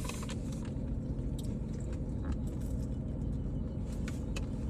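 Steady low rumble inside a car's cabin, with a few scattered light clicks and rustles as fast-food nuggets are handled and eaten.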